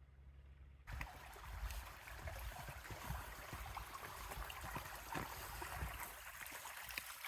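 Creek water running and splashing over rocks, a steady rush with small gurgles in it, starting suddenly about a second in and cutting off sharply at the end.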